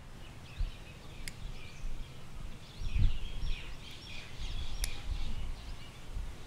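Small birds chirping repeatedly in woodland, over a low rumble. Two sharp clicks sound about a second in and near the end, and a low thump comes about halfway through.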